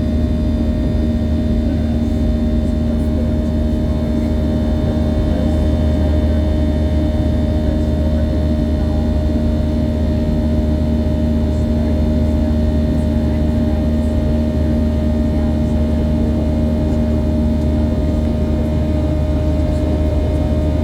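Aircraft in flight, its engines giving a steady drone: a strong low rumble with a few constant hum tones above it, unchanging throughout.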